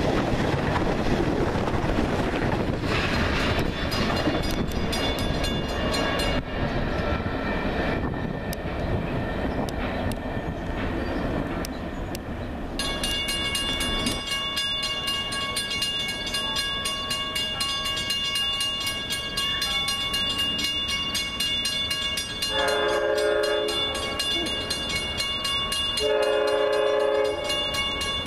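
A passing train rumbles for the first half. A grade-crossing bell then rings steadily, and a train horn sounds two long blasts in the last third.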